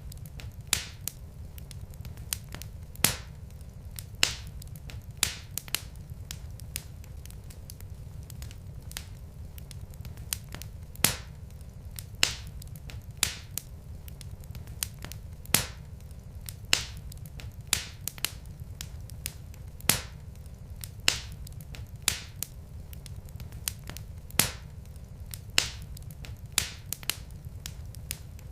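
Log fire in a fireplace crackling: irregular sharp pops and snaps, a few of them much louder than the rest, over a steady low rumble.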